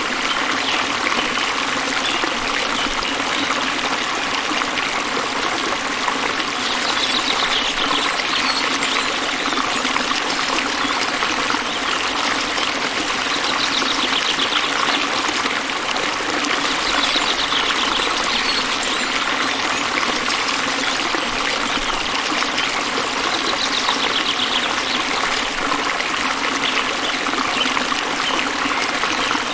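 Running water of a stream, a steady unbroken rush. A brief high trill sounds over it about four times.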